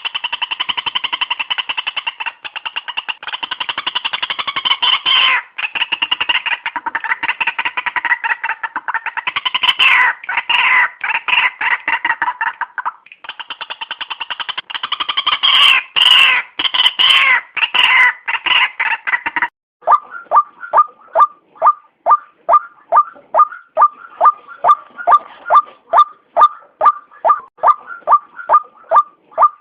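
White-breasted waterhen (ruak-ruak) calls: a dense, loud run of harsh, chattering calls, briefly pausing near the middle, then switching abruptly about two-thirds of the way in to a single note repeated evenly about three times a second.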